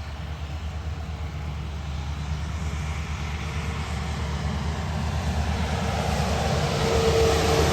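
A truck approaching and growing steadily louder, its low engine rumble joined by a whine that strengthens near the end.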